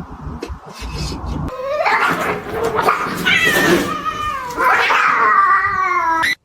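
A cat yowling: three long, wavering caterwauls, the last one cut off suddenly. A few light clicks come before the first call.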